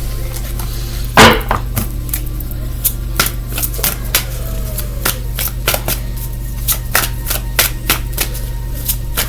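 Tarot cards being shuffled and handled: a run of sharp, irregular clicks and taps, several a second, with a louder knock about a second in. A steady low electrical hum runs underneath.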